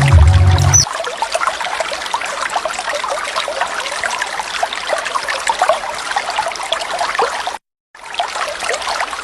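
Water of a small natural waterfall trickling and splashing, with many small drips and splashes. A loud low sound fills the first second and stops abruptly, and the water sound drops out completely for a moment near the end before carrying on.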